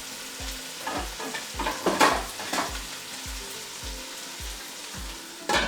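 Stew sizzling in a pot on the heat, with several sharp metal knocks as the pot and its lid are handled; the loudest knock comes about two seconds in.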